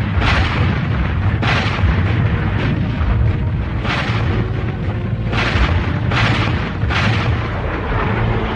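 Cartoon battle sound effects: an artillery barrage of cannon fire and explosions, with sudden booms every second or two over a continuous heavy rumble.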